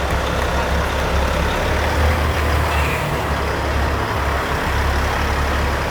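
Diesel engine of a custom Peterbilt semi truck running, a steady low drone with street noise over it.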